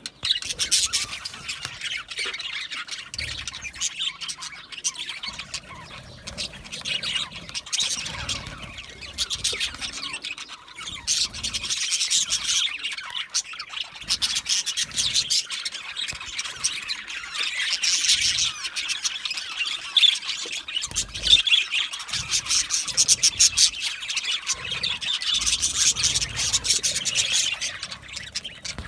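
A group of budgerigars chattering: a dense, continuous mix of rapid chirps, warbles and squawks, swelling and easing every few seconds.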